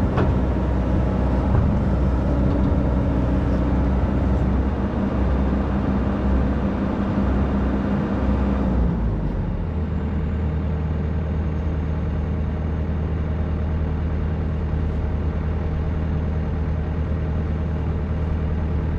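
Excavator's diesel engine running hard for the first half, then dropping about halfway through to a lower, steady hum.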